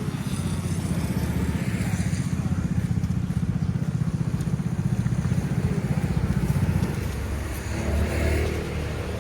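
A motorbike engine running close by with a fast, even firing beat, dying away after about seven seconds.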